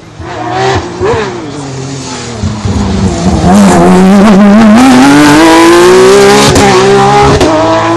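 Rally car engine at a hairpin: a short rev blip, then the revs fall low as the car slows through the bend, then it accelerates hard out, the engine note rising steadily and loud for about four seconds.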